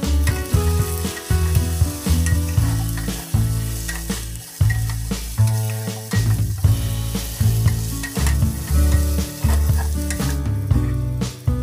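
Carrots, potatoes and bell peppers sizzling as they sauté in a stainless steel pot, stirred with a wooden spoon.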